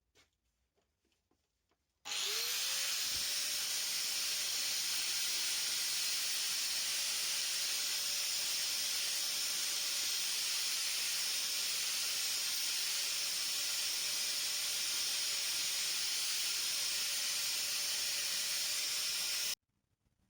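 An electric power tool spins up about two seconds in and runs steadily, a constant hum under a loud high rushing noise, then cuts off suddenly near the end.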